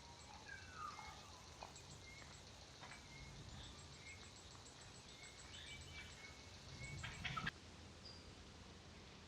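Faint birdsong in the bush: scattered short chirps and a falling whistled note, with a thin run of very high ticking notes. Near the end a louder rustling noise swells and then cuts off suddenly.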